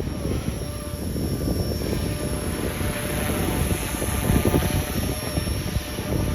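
Gusty wind buffeting the microphone in an uneven low rumble, over the thin, steady whine of a 450-size electric RC helicopter's motor and rotors.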